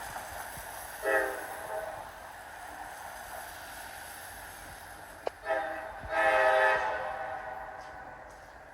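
Diesel locomotive air horn sounding a short blast about a second in and a longer, louder blast a little after six seconds, over the steady sound of the passing freight train.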